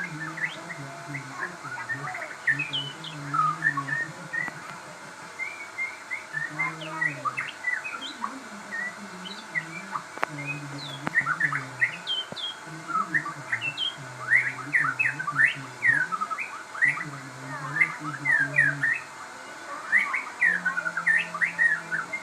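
Crossbred murai songbird singing continuously, a fast, varied run of short chirps and whistled notes.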